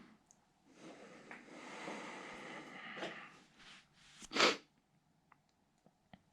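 A person's long, noisy breaths, then one short, sharp, loud burst of breath, like a sneeze, about four and a half seconds in, followed by a few faint clicks.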